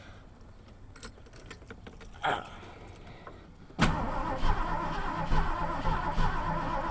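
Starter cranking the 1980 Ford F100's 302 V8 on an extreme cold start, coming in suddenly about four seconds in with a steady pulsing turn-over; the engine does not catch.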